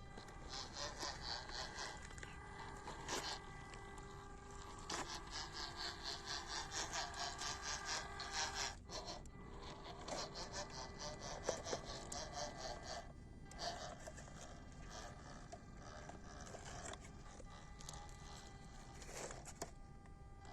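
WPL C24 1/16-scale RC crawler trucks driving: a steady electric motor and gearbox whine, with stretches of fast rhythmic scraping as the tyres crawl over dirt and rock, rising and falling with the throttle.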